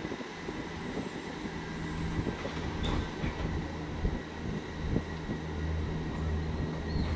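Class 158 diesel multiple unit pulling away under power, its diesel engines giving a steady low drone that grows louder about two seconds in, with a few faint clicks.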